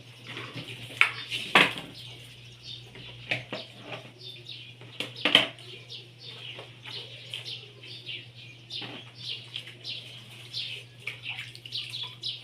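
Birds chirping over and over in the background, with a few sharp clatters of dishes or a basin being handled, the loudest at about one and a half and five seconds in, over a steady low hum.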